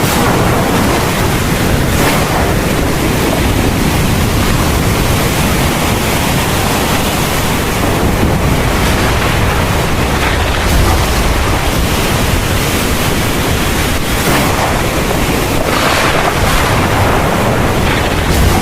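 Heavy thunderstorm rain pouring steadily, with a deep rumble of thunder underneath.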